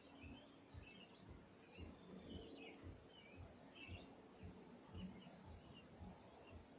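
Faint, scattered chirps and twitters of small birds over a low background rumble.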